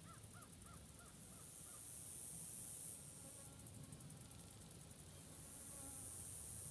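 Forest ambience: a bird gives about six quick calls in the first two seconds, with fainter calls later. Under it a high hiss swells and fades twice.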